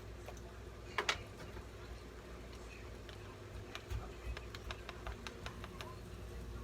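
Light clicks and taps of kitchen utensils as ground cumin is measured out by the tablespoon: one sharper clack about a second in, then a quick run of small ticks, about three or four a second, in the middle, over a steady low hum.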